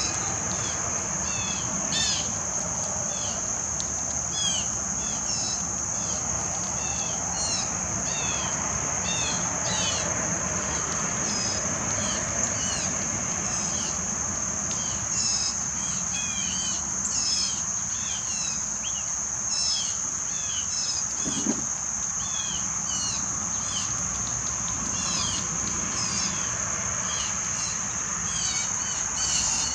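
Insects trilling in one steady, unbroken high tone, with many short bird chirps and whistles scattered over it.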